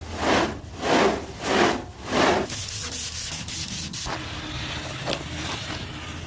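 Four rhythmic rubbing or scraping strokes in the first two and a half seconds, then a quieter steady rustle with a few light clicks.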